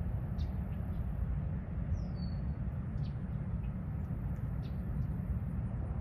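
Faint bird calls, a few short high chirps and one downward-slurred whistle about two seconds in, over a steady low rumble.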